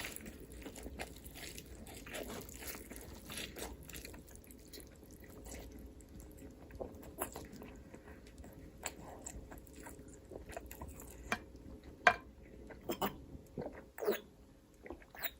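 Close-miked eating: chewing with crunchy bites, the sharpest and loudest crunches coming in the last few seconds.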